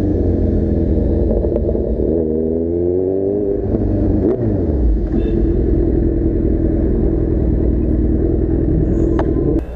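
Kawasaki Z1000's inline-four with an Arrow full-system exhaust, running under way: its pitch rises as it accelerates about two seconds in, dips briefly near the middle, then holds a steady note until it cuts off abruptly near the end.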